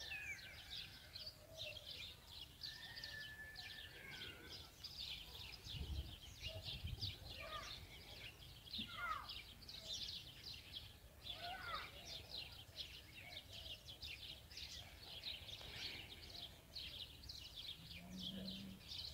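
A chorus of many small birds chirping quickly and continuously, with a few clearer whistled calls that slide up and down in pitch.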